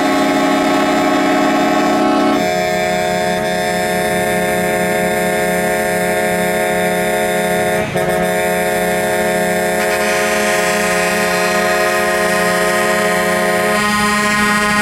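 Truck air horns blowing long and loud, several sounding together as a steady chord. The chord shifts about two seconds in and again around ten and fourteen seconds as horns join and drop out, with a brief break near eight seconds.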